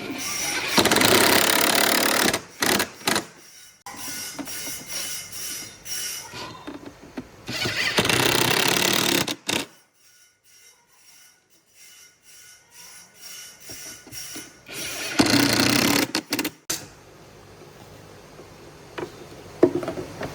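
A handheld power tool working wood in three bursts of about two seconds each, with quieter, choppier handling noise between them and a short near-silent pause in the middle.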